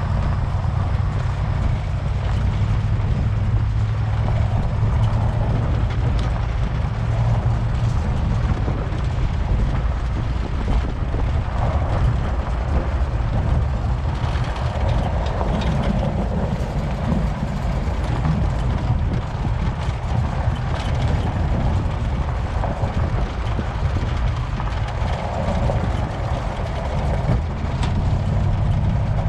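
Vehicle engine running steadily under way while towing a hay baler and rake, a continuous low rumble with road and rattle noise over it.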